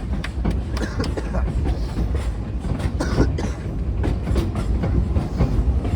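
A steam train's passenger car rolling along the track, heard on board: a steady low rumble with irregular clacks and rattles.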